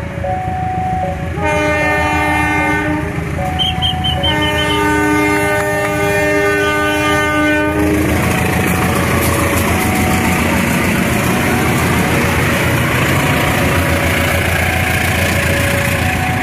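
Railway level-crossing alarm chiming in two alternating tones while a diesel locomotive blows its horn twice, a short blast and then a longer one of about three seconds. From about eight seconds in, the passenger train rolls past with its wheels clattering on the rails.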